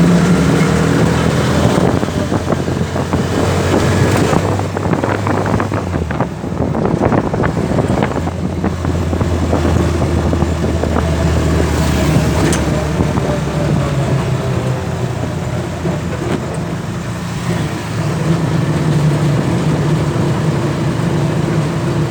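Engine of a Tossa three-wheeled cargo motorcycle running while riding along the road, with road and wind noise. The engine note shifts about six seconds in and settles again a couple of seconds later.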